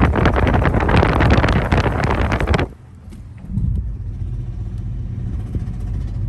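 Loud, rough, crackling rushing noise that cuts off abruptly a little under three seconds in. After a brief lull, the 2001 Lexus GS300 is heard as a steady low rumble.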